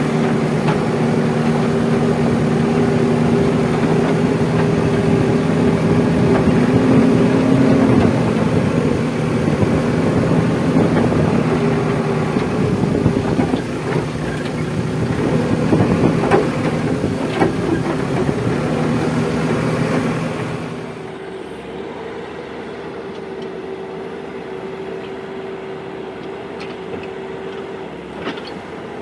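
Diesel engine of a JCB 3DX backhoe loader running hard while it digs and loads mud, with a few knocks. About twenty seconds in it drops to a quieter, steady idle.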